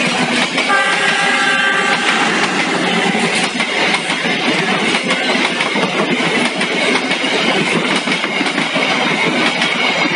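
Passenger train coaches passing close by at speed: loud, steady noise of steel wheels running on the rails. A short pitched tone sounds over it about a second in.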